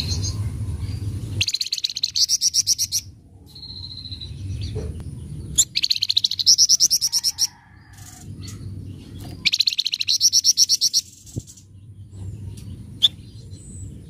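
Flamboyan (wergan Jawa) songbird giving a rough, rapid chattering trill, three bursts of about a second and a half each, with softer short calls in between. A low rumble runs underneath.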